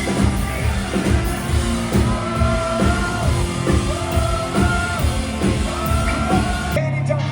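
Live rock band playing with a singer holding long notes over a steady drum beat, then cutting off abruptly near the end into a thinner, quieter passage.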